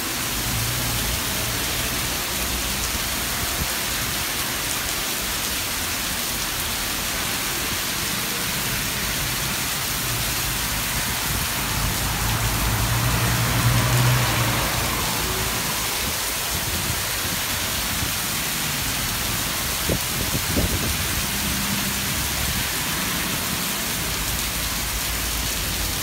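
Heavy rain pouring down in a steady hiss, swelling louder for a couple of seconds about halfway through. A couple of short sharp knocks come near the end.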